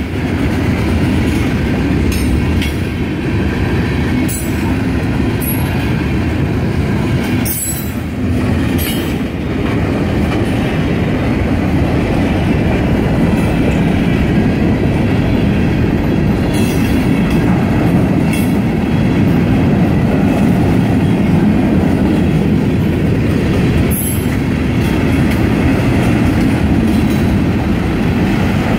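Freight cars of a long mixed freight train rolling past: a steady low rumble of steel wheels on the rails, with sharp clacks every few seconds.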